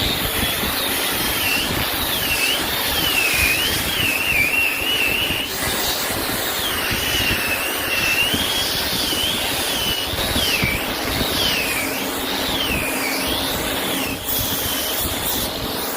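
Power tool running steadily on wood, its high whine dipping and rising again and again as the load on it changes.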